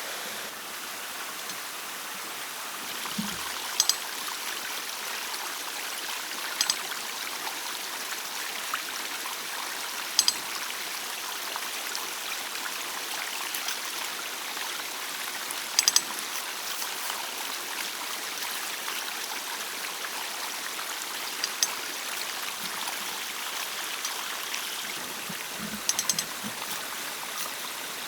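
A stream flowing steadily, with short sharp clicks or knocks every few seconds, some in quick pairs.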